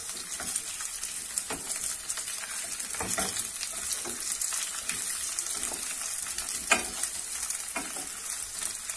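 Sliced potatoes and onions sizzling in oil in a stainless steel pot as they are sautéed, stirred with a wooden spoon that scrapes and knocks against the pot now and then. One knock, about two-thirds of the way through, is louder than the rest.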